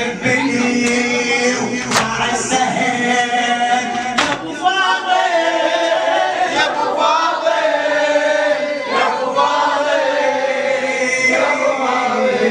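Group of men singing a Shia lament (latmiyya) together in Arabic, choir-like and unaccompanied by instruments, with a few sharp slaps or beats in the first four seconds.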